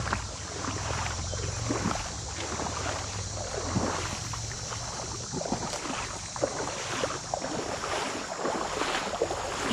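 Creek water splashing and gurgling in irregular small bursts. Wind rumbles on the microphone through the first half.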